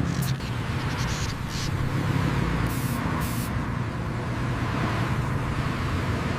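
Road traffic noise: a steady low rumble of vehicles, with brief hissing swishes, two of them about three seconds in.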